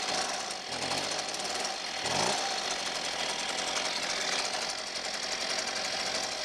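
Husqvarna 125B handheld leaf blower's small two-stroke engine running steadily, freshly started cold on its first run.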